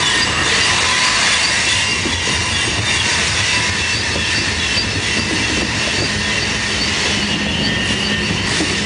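Freight cars of a manifest train rolling past on a curve, the wheels squealing against the rails with a steady high-pitched ring over the rumble and clatter of the wheels. A low steady hum joins in about six seconds in.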